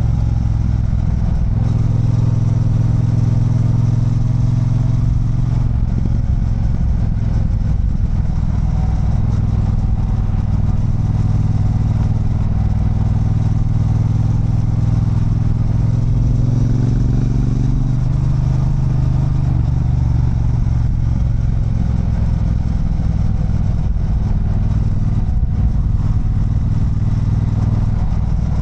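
Triumph Bonneville Bobber's 1200 cc parallel-twin engine running on the move, heard from the rider's seat during a downhill ride. The engine note rises and falls several times as revs change, with a clear rise in revs about two-thirds of the way through.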